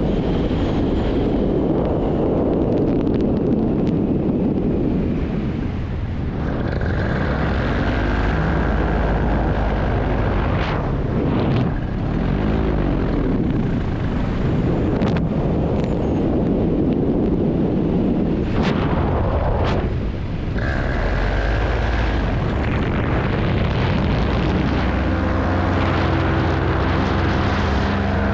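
Paramotor engine and propeller running in flight under heavy wind noise on the microphone. The engine note wavers up and down, then comes through as a clear, steady hum near the end.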